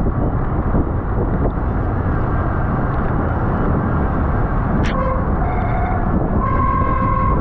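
Wind rushing over the microphone of a camera on a road bike racing at speed, with tyre and road noise. About five seconds in, a few short high steady tones sound through the wind, the longest near the end.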